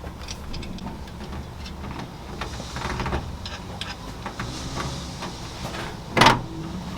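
Scattered metallic clicks and knocks from tools and parts while an engine is being fitted onto its motor mounts, with one loud clank about six seconds in, over a steady low hum.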